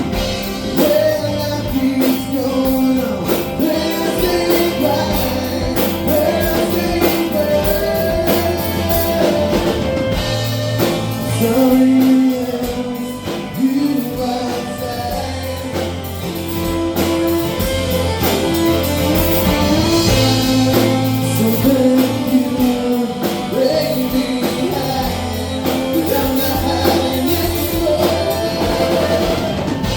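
Live rock band playing a song with a lead singer over drum kit, electric guitar and bass.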